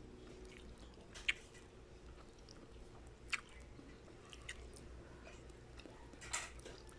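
Faint close-up eating sounds: a person chewing, with a few short sharp mouth clicks, the clearest about a second in and about three seconds in.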